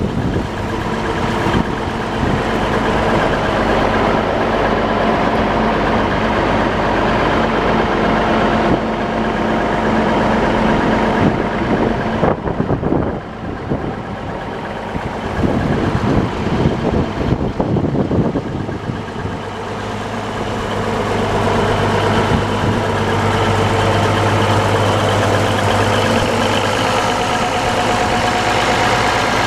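Versatile 895 four-wheel-drive tractor's diesel engine running steadily, its note shifting partway through.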